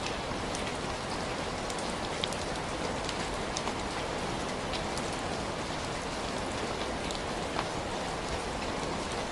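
Steady rain falling, an even hiss with scattered sharp ticks of drops or crackles.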